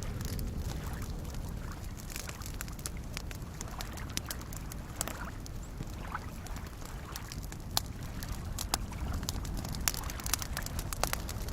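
Campfire crackling with frequent sharp pops, the louder ones mostly in the second half, over soft lake waves lapping and a steady low rumble.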